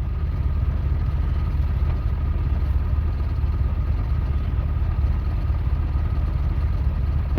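2004 Mitsubishi Lancer four-cylinder engine idling just after a hard cold start, then cutting out abruptly right at the end as it stalls. This is the cold-morning hard starting and stalling that the mechanic suspects comes from dirty injectors or throttle body.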